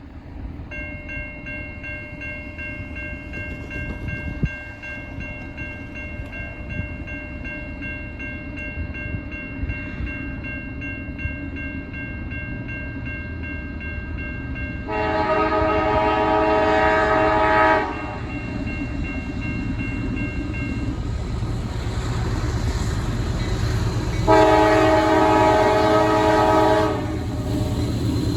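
A CSX freight locomotive approaching, its low engine and wheel rumble building steadily, while a grade crossing signal bell rings continuously. The locomotive's air horn sounds two long blasts of about three seconds each, midway through and again near the end.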